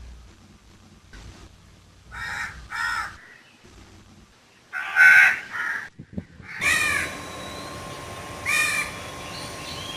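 A bird calling repeatedly: about six short, pitched calls, the loudest about halfway through, the last two coming over a rise in background noise.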